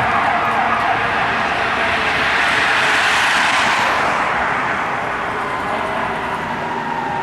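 Emergency vehicles passing on a city street, the noise peaking about three seconds in and then fading as they move away, with a faint falling tone near the end.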